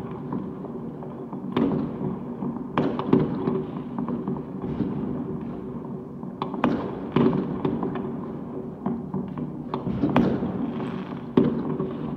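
New Year's fireworks going off all over a city. There is a near-continuous crackle and rumble of distant bursts, with sharper bangs every second or two, the loudest about three and eleven seconds in.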